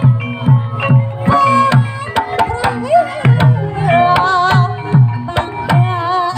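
Live Javanese gamelan music for a Barongan dance: kendang hand drums keep a steady beat of about two strokes a second, under a wavering melodic line.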